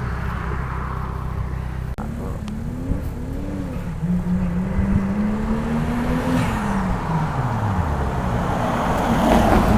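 Car engine running, its revs rising from about two seconds in, held, then falling away around seven to eight seconds, with a louder burst of noise near the end.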